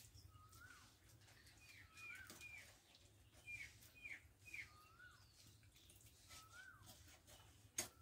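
Faint birds calling: a rising-then-falling whistle repeated about every second and a half, with two quick runs of short, higher chirps. A single sharp knock near the end.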